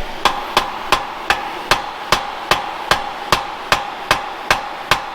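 Steady hammering on metal, about two and a half blows a second, each blow with a short metallic ring.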